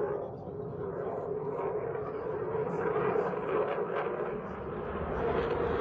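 Aircraft flying low overhead: a steady engine drone that grows fuller and brighter near the end.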